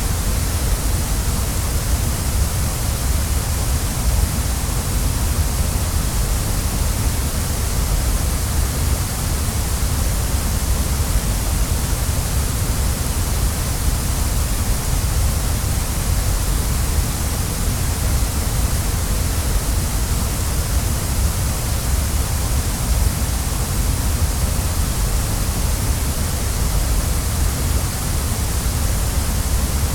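Waterfall: a steady, unbroken rush of falling water, with a deep rumble and a high hiss.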